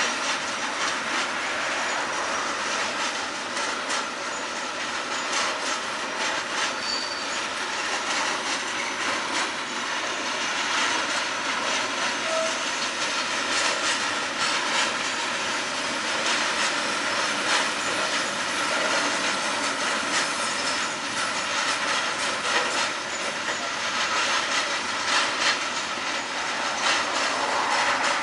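Freight train of covered hopper wagons rolling past: a steady rush of steel wheels on rail, with frequent irregular clicks as the wheels cross rail joints and a couple of brief wheel squeals.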